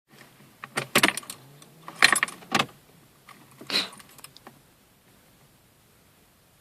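Car keys jangling on their ring as the ignition key of a Škoda Felicia 1.9 diesel is put in and turned, in three bursts over the first four seconds. Then the engine is not yet running, only a faint steady background while the glow plugs preheat before cranking.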